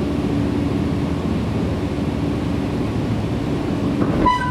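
Nankai 7100 series electric train running, heard from inside the carriage: a steady rumble of wheels on rail with a steady low hum. Near the end a brief high ringing tone sounds over it.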